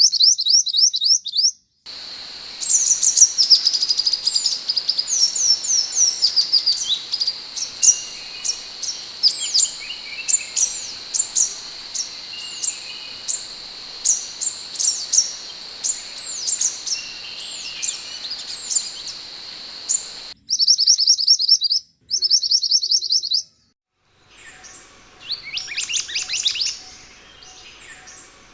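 Scarlet minivet (sepah hutan) calling: rapid runs of short, high, falling chirps, repeated over and over. A steady high hiss sits behind the chirps for the first few seconds, and the recording cuts abruptly a few times where clips are joined.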